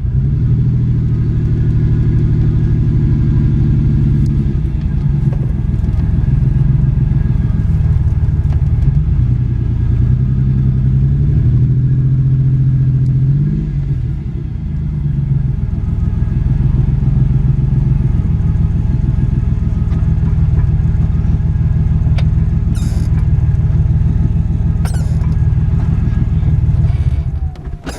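1991 Ford Explorer's 4.0-litre V6 running under way, a steady low exhaust rumble through a muffler with a hole in it. The engine note rises and falls as it revs, most clearly about twelve to fourteen seconds in, and dies away just before the end.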